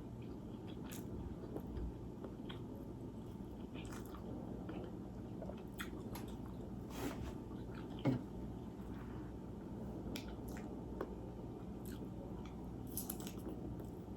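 Close-miked eating: chewing and biting food with small wet mouth clicks and smacks, over a steady low room hum. One short knock about eight seconds in.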